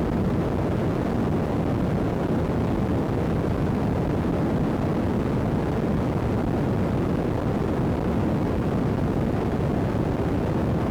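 Steady, even noise from a faulty iPod microphone, strongest low down, with no distinct events and no thunder claps.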